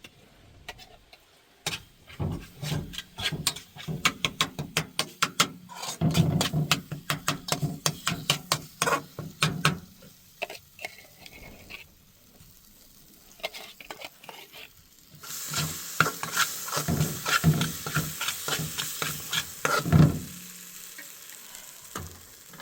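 Cooking in a pan: a utensil stirring and scraping with rapid clicks for several seconds, then about five seconds of sizzling with stirring that stops suddenly.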